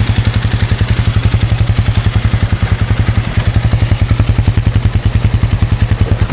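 Honda CRF300's single-cylinder four-stroke engine idling steadily with an even, quick pulse of about a dozen beats a second, left running after the bike crashed and buried itself in deep sand.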